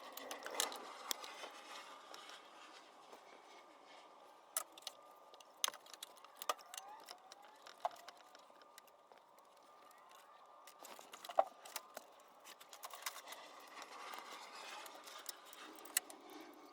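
Faint, scattered light clicks and taps of hand tools and small parts being handled, a few sharper ticks among them, over a faint hiss.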